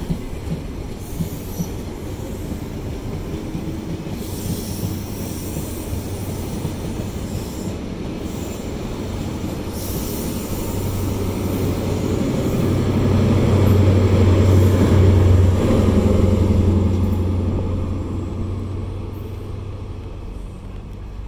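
An HST (InterCity 125) running through a station: Mark 3 coaches rumble past with wheel clatter and some high wheel squeal. About two-thirds of the way through, the steady low hum of the rear Class 43 power car's diesel engine rises to the loudest point, then fades as the train draws away.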